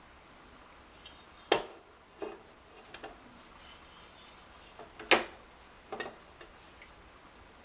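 A handful of sharp clicks and knocks as small washer-door hinge parts are handled and set down on a hard countertop, the two loudest about a second and a half and five seconds in.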